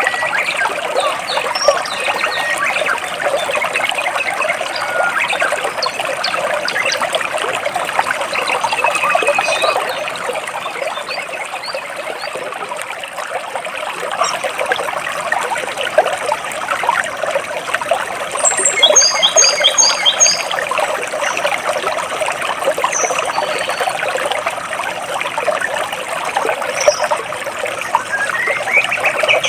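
Stream water trickling and splashing between large rocks, a steady rushing wash, with small birds chirping over it; about two-thirds of the way through, a bird gives a quick run of repeated high notes.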